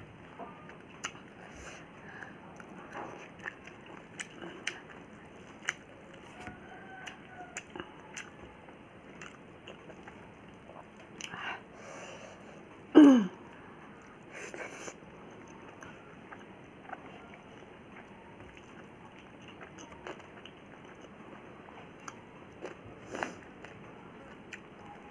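Close-miked eating of rice, dal and vegetables: scattered small chewing clicks and mouth smacks. About halfway through comes one loud, short sound that falls in pitch.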